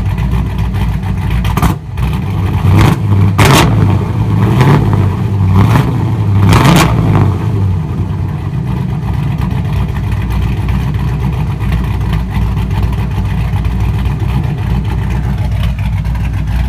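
Forged 383 stroker V8 with a hot cam, breathing through long-tube headers and a Phab exhaust, blipped up from idle about six times in quick succession in the first seven seconds or so, then settling back to a steady idle.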